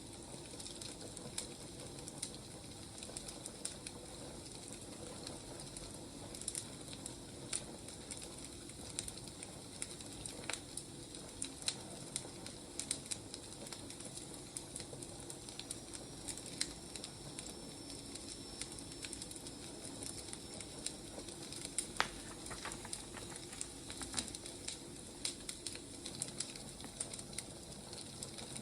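Firewood burning, crackling with irregular sharp pops over a steady low hiss.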